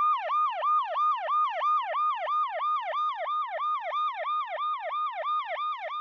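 Electronic siren-like sound effect: a repeating falling whoop, about three a second, each call jumping up and then sliding down in pitch. It stands in place of the live sound.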